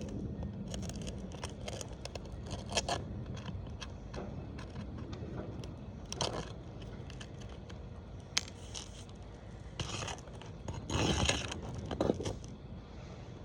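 Hand work on roof shingles: irregular scraping and clicking, with a longer, louder scrape about eleven seconds in.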